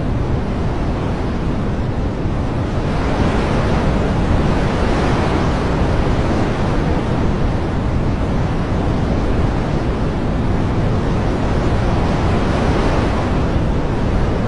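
Steady rushing water noise, dense and even, that swells gently in strength a few times.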